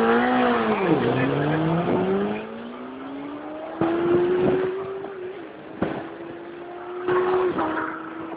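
Drag-racing motorcycle engine revving loudly, then pulling away with its pitch climbing steadily as it gets farther off. A couple of sharp cracks come through in the middle.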